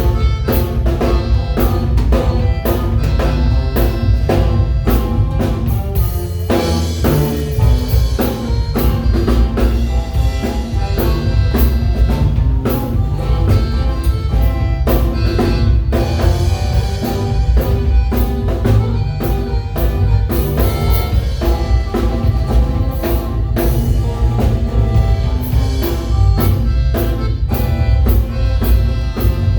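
Waila band playing an upbeat number, with drum kit and bass carrying a steady beat under the other instruments.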